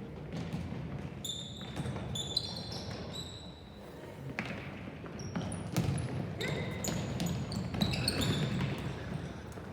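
Game play on a hard indoor court: sneakers squeak repeatedly on the floor and a ball thuds and bounces, over a low murmur of spectators' voices.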